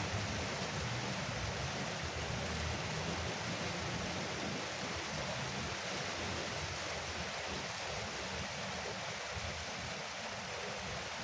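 Rain falling steadily on a veranda roof, an even, dense hiss. A low rumble of distant thunder dies away over the first few seconds.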